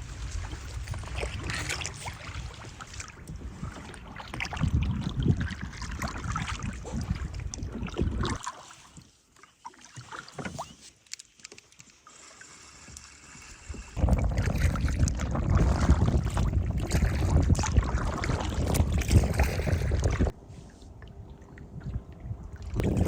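Canoe paddling: paddle strokes dipping and splashing in the water, with a low rumble of wind on the microphone in the louder stretches. The sound changes abruptly several times, dropping quiet from about 8 to 14 seconds in and again near the end.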